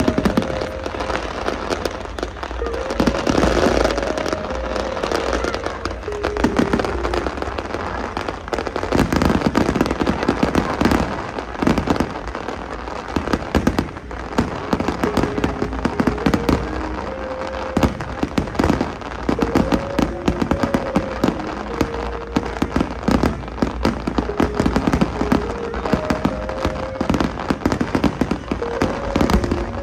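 Large aerial fireworks display: a dense, continuous barrage of bangs and crackling shells, heaviest in several waves, over a steady low rumble.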